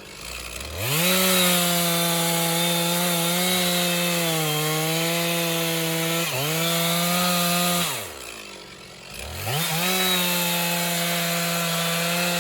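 Stihl 460 two-stroke chainsaw revving up to full throttle about a second in and cutting through a large log, its pitch sagging a little under load in the cut. About eight seconds in it drops back toward idle, then revs up again for the next cut.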